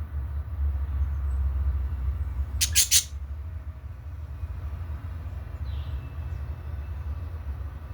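Budgerigars calling: a quick burst of three or four sharp chirps about three seconds in, then a faint call a few seconds later, over a steady low rumble.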